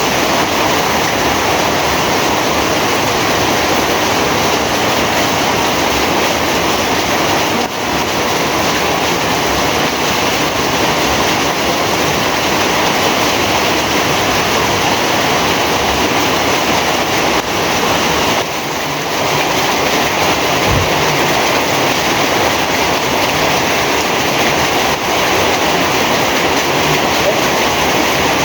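Heavy rain pouring steadily: a dense, even hiss with no let-up.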